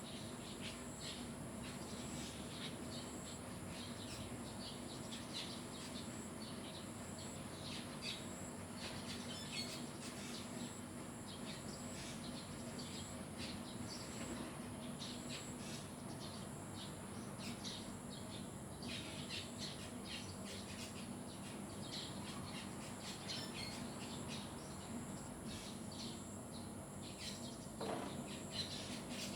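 Wild birds chirping in many short, quick calls, over a steady high-pitched insect drone. One lower, louder call comes near the end.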